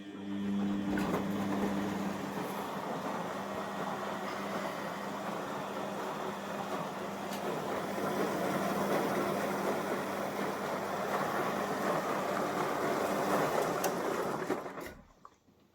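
Front-loading washing machine, covers off, running with a steady rushing noise over a low hum; the sound starts abruptly and dies away about fifteen seconds in.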